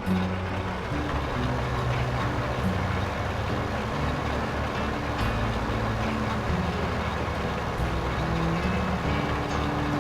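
Truck engine running with steady road and mechanical noise, its low hum shifting in pitch every second or so.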